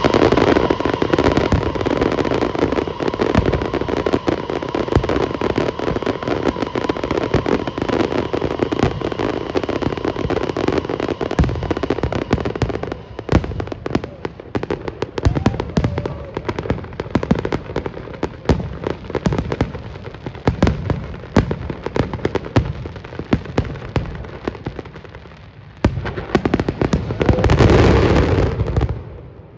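Fireworks display: a dense, rapid run of crackling bursts and bangs that thins out somewhat midway, then swells into a loud rush of crackle near the end that cuts off suddenly.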